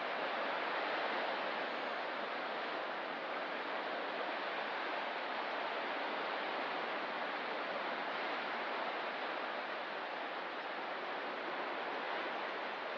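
Ocean surf on a rocky coast: a steady wash of breaking waves that hardly rises or falls, with no separate crashes standing out.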